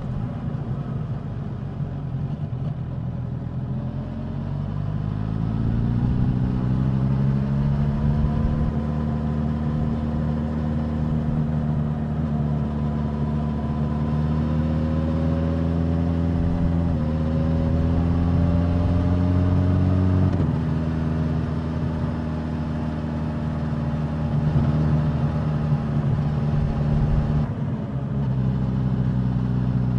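Suzuki GSX-S1000's inline-four engine and exhaust on the road: the revs climb from a few seconds in, with a short upshift about 17 seconds in and another about 20 seconds in, then it runs at a steady speed.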